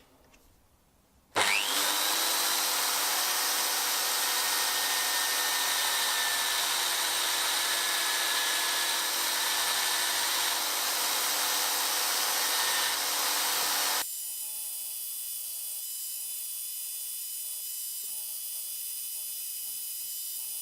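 Electric power tool spinning up with a rising whine and then running steadily, working on metal. It cuts off sharply about two-thirds of the way through, leaving a quieter steady hum with a faint pattern repeating every couple of seconds.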